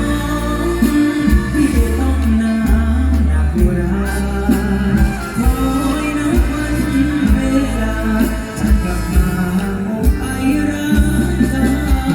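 Live mor lam band music: a melody line over a heavy bass and a steady drum beat.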